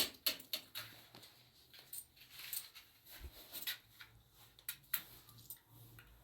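Irregular light clicks and taps of small objects being handled, a few close together near the start and more spread out later, with faint rustling between them.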